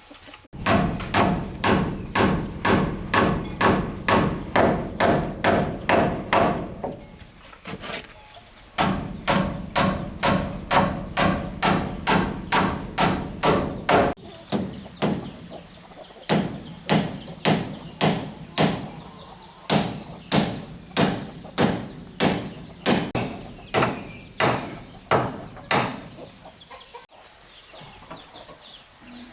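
Steady chopping strikes, about two and a half a second, in three long runs separated by short pauses.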